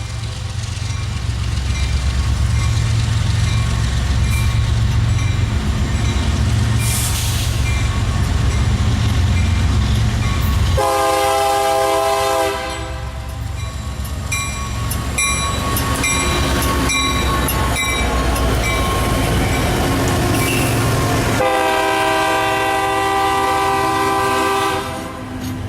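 A passing diesel freight train: the locomotive's multi-note horn sounds two long blasts, about 11 and 21 seconds in. A heavy, deep engine rumble fills the first part, and wheels clack over rail joints in between.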